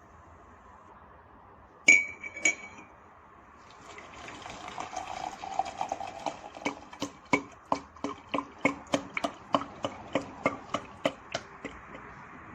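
Two sharp ringing clinks of tableware, then a soft rustle and a run of quick, even clinks, about three a second, that stop shortly before the end.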